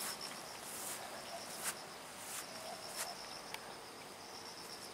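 Insects chirping: a steady, faint, high-pitched pulsing trill, with a few faint clicks.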